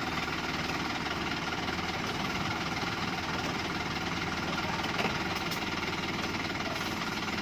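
Truck diesel engine idling steadily, with a faint click about five seconds in.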